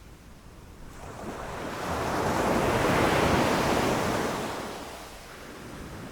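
A single ocean wave rushing in and crashing: the surf swells about a second in, is loudest near the middle, and dies away over the next couple of seconds into a lower steady wash.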